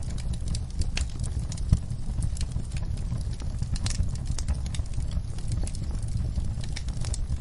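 Wood fire crackling: irregular sharp snaps and pops over a steady low rumble of burning, with one louder pop about two seconds in.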